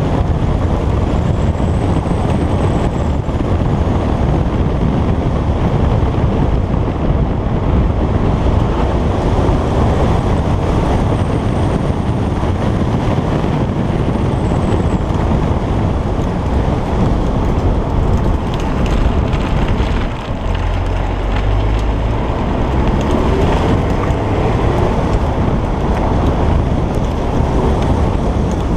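Stock Alfa Romeo Giulietta Quadrifoglio Verde's turbocharged four-cylinder engine driving along the road, mixed with heavy wind and road noise on the microphone. About twenty seconds in the level dips briefly, then a rising engine note follows as the car pulls again.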